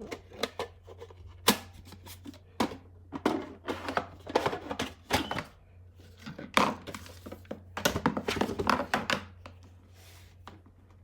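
Hard plastic parts of a small dehumidifier being handled and fitted together: irregular clicks and knocks, a few of them louder thunks.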